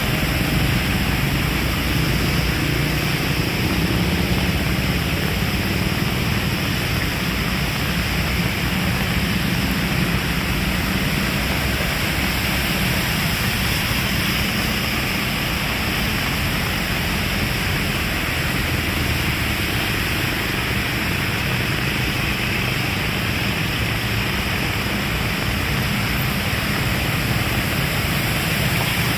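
Heavy rain falling steadily: a dense, even hiss with no breaks or thunderclaps.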